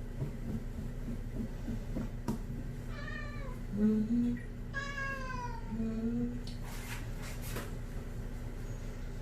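Scottish Fold cat meowing twice while being bathed, a short meow and then a longer one that falls in pitch.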